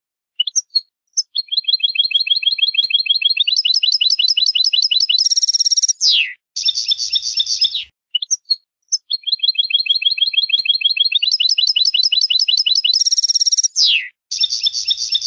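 Songbird song: runs of fast, high trills that change speed and pitch, with buzzy phrases and a quick downward sweep. The same song phrase is played twice over, as in a looped recording.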